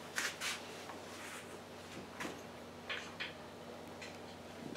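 A few faint clicks and light knocks of handling against a quiet background, with no motor running yet.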